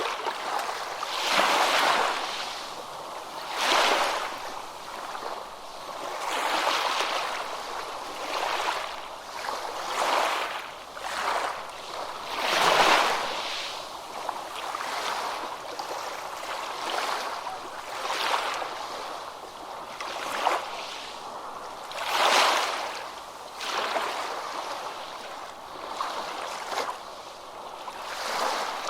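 Small ocean waves breaking and washing on a beach, a new surge of surf every two to three seconds, the biggest near the middle and again about three quarters through.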